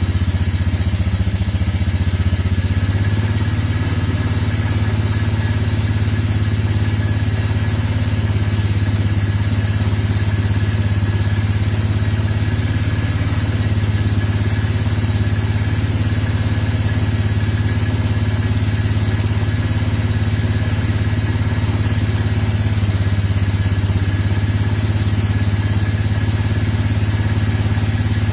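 Motorcycle engine idling steadily while still cold, shortly after a cold start in near-frost weather.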